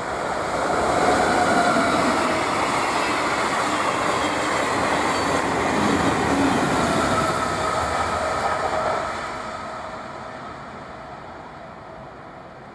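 Regional passenger train passing at speed, a loud rushing rail noise that builds about a second in, holds for several seconds with faint whining tones that drift slightly lower, then fades away as the train recedes.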